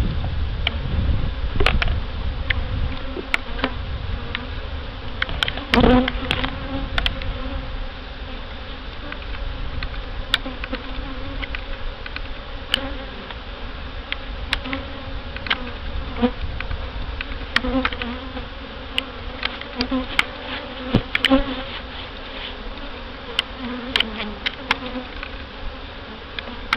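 Honey bees buzzing in a steady, low hum around an opened hive, with scattered sharp clicks and a louder knock about six seconds in.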